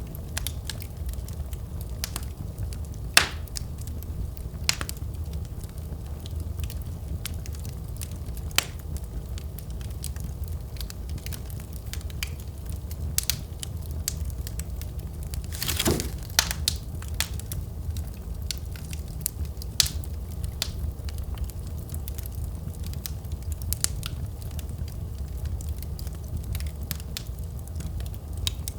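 Wood fire crackling in a fireplace: a steady low rumble of flames with scattered sharp pops, the loudest about three seconds in, and a short hissing burst of cracks about halfway through.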